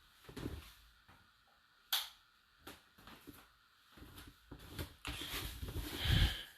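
Dishwasher door and racks being handled: a sharp click about two seconds in and a few light knocks, then a longer stretch of rattling that ends in a low thump near the end.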